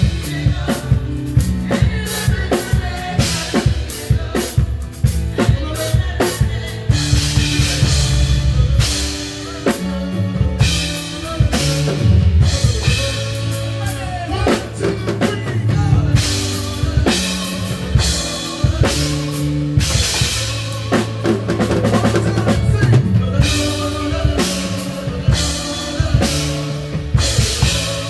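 Live band playing with a full drum kit: kick, snare and cymbal crashes over bass notes that move in steps.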